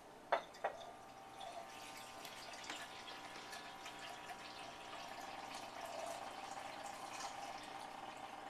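Two sharp knocks, then water being poured into a plastic pet water fountain's reservoir, a steady splashing trickle with small drips.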